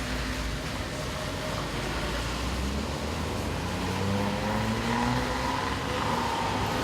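Steady rain with a car going by on the wet road, its engine note rising in the second half.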